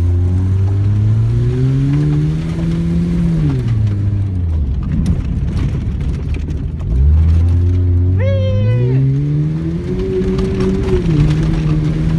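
1998 Chevy S-10's four-cylinder engine revving as the truck is slid around on frozen ground: the revs climb, drop away near four seconds, then climb again. A brief high yelp comes about eight seconds in.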